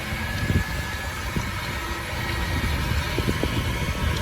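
Steady low rumble of a car running, with uneven low thumps.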